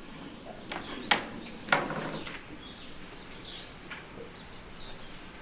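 Small birds chirping now and then, with three sharp clicks in the first two seconds.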